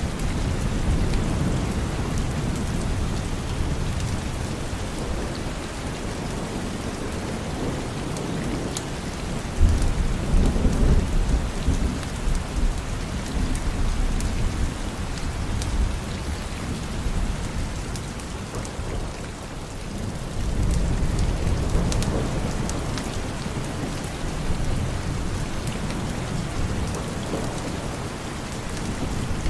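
Steady rain falling with scattered sharp drip ticks, and rolls of thunder: a low rumble breaks in suddenly about a third of the way through and another swells up about two thirds of the way through.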